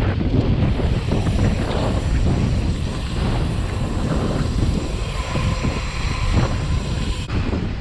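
Wind buffeting the microphone of a mountain bike rider's action camera, a steady loud rumbling rush during the ride.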